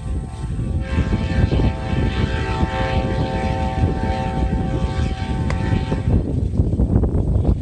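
Amtrak P42DC diesel locomotive sounding its multi-chime horn in one long blast of about five seconds, over the heavy rumble of the passing train.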